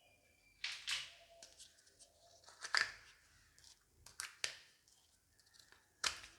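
Toy packaging being torn open by hand: four short tearing, crinkling bursts about a second or two apart.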